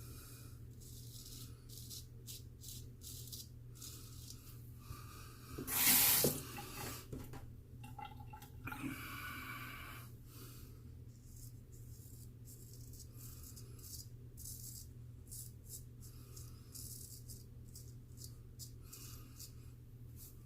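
Straight razor scraping through lathered stubble in many short, crisp strokes. About six seconds in there is a brief loud rush of water from the sink tap.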